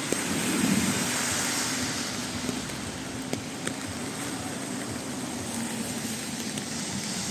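Rainy city street: a steady hiss of rain and road traffic, with a low vehicle hum that swells about a second in, and scattered sharp ticks of drops.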